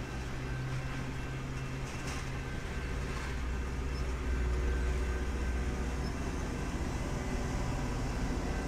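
Diesel locomotive running, a steady low engine drone that swells a little around the middle.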